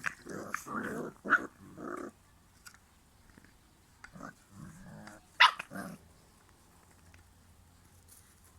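Cane Corso puppies growling and barking as they play-fight: a quick run of short growls and barks, then a single sharp bark about five and a half seconds in, the loudest sound.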